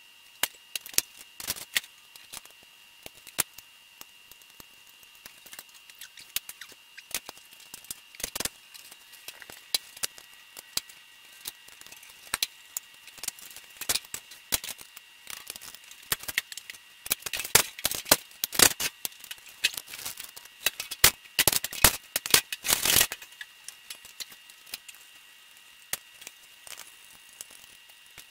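Irregular clicks and light rattling of small hard objects being handled, thickening into a dense run of clicks about two-thirds of the way in.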